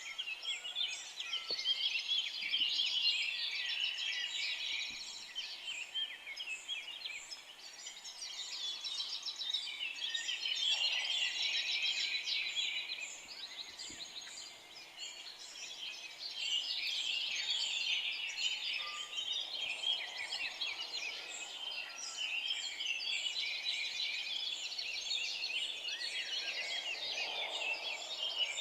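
Chorus of many forest songbirds singing and chirping at once, overlapping rapid high trills and twitters that swell and ebb every few seconds.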